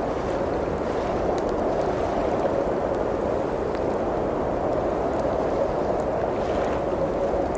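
Blizzard wind blowing steadily with slow swells, with faint scattered crackles of a wood fire.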